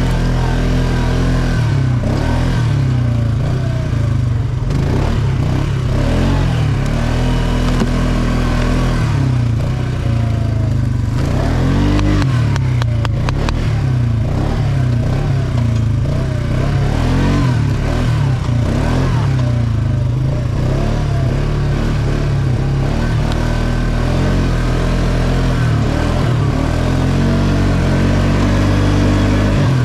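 ATV engine running while riding, its pitch rising and falling with the throttle. A brief run of rattling clicks about halfway through.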